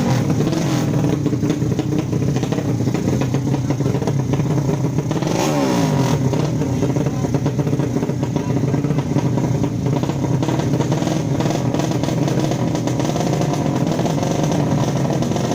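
155 cc drag-race motorcycle engines running loud and continuous, with one engine's pitch dropping about five seconds in.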